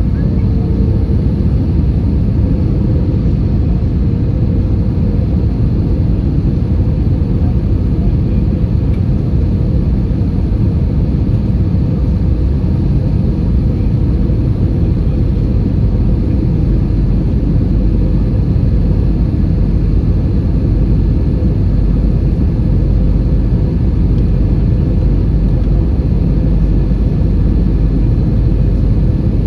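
Steady, loud cabin rumble of an Airbus A320 in flight on approach: engine and airflow noise heard from inside the cabin, even and unchanging throughout.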